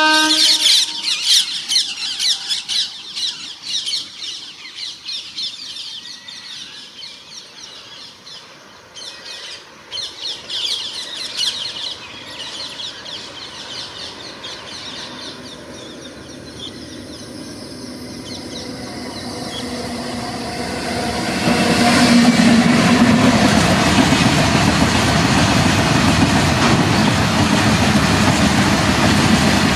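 A horn note cuts off about half a second in. Birds then chirp in quick repeated trills for the first dozen seconds. From about 18 seconds an Indian Railways freight train's noise builds, and from about 21 seconds the train passes close and loud, with steady wheel and wagon noise.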